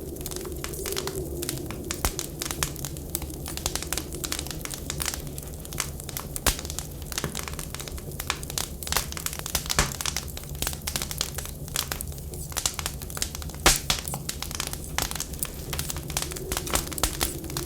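Wood fire crackling in a firewood stove: irregular sharp pops and snaps over a steady low rumble, with one louder snap about two-thirds of the way through.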